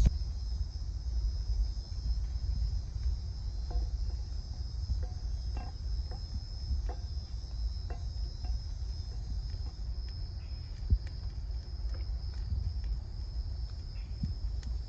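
Night insects, crickets, chirring in one steady high-pitched band, over a low rumble with scattered faint clicks.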